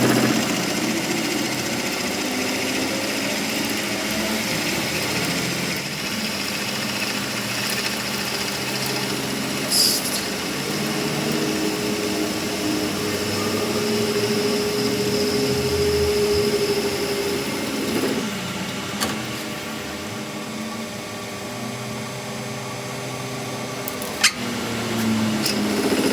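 A small motorised machine running steadily, with a few sharp clicks.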